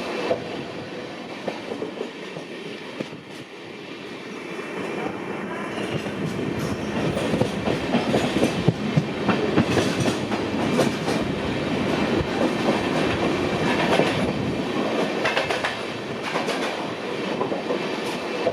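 Express train rolling by, its wheels clattering over the rail joints. The sound swells about a third of the way in, is loudest in the middle, and eases off near the end.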